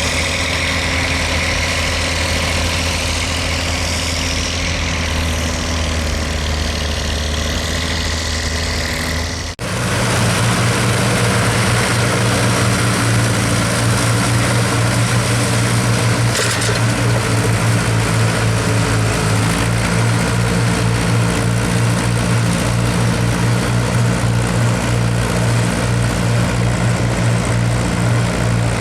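Diesel tractor engines running steadily. About nine and a half seconds in the sound cuts abruptly to a different, lower engine note that runs on with a slight even pulsing.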